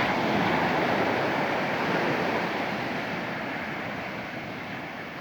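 Sea surf: the rush of a wave swelling in the first second and slowly dying away.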